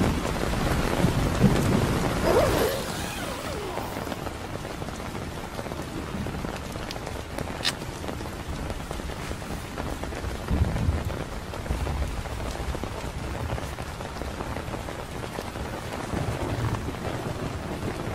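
Steady rain falling, with a low rumble of thunder in the first few seconds.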